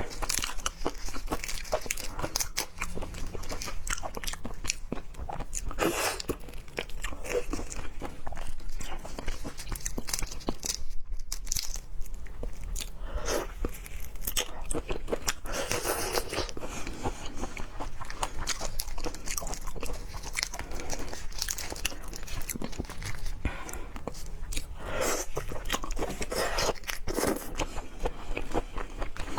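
Close-miked chewing and biting of raw seafood: a continuous run of wet, crunchy mouth clicks, with several louder bites along the way.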